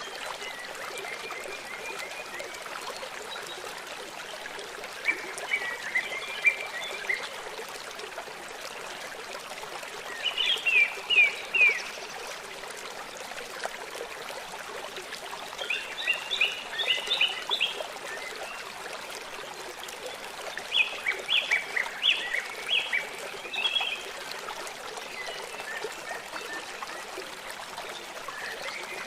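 River water running steadily, with a songbird singing short phrases of quick chirping notes every few seconds.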